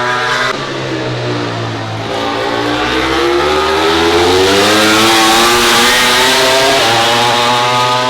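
MotoGP prototype racing motorcycles running at high revs on the circuit. The sound drops suddenly about half a second in, then the pitch climbs steadily as a bike accelerates, loudest around the middle.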